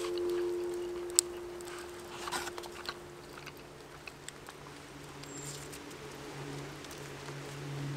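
A kalimba note ringing on and fading away over the first few seconds, followed by small sharp clicks and rustles. A faint low hum comes in about halfway through.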